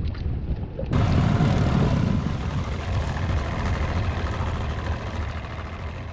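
Bass boat running on the lake: steady motor and hull rumble under heavy wind noise on the microphone, with an abrupt change about a second in, fading down near the end.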